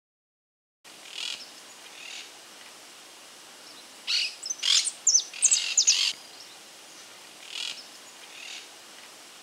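Birds chirping over a steady faint hiss, with short, sharp high chirps bunched between about four and six seconds in and a few softer calls elsewhere. The first second is silent.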